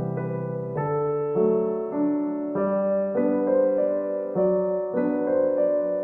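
Background piano music: a gentle piano piece playing soft sustained chords that change about every half second to second.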